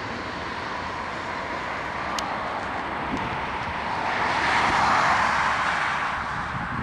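Turbofan jet noise from a United Express Embraer E175 regional jet passing. It is a steady rushing roar that swells to its loudest about four to five seconds in, then eases off.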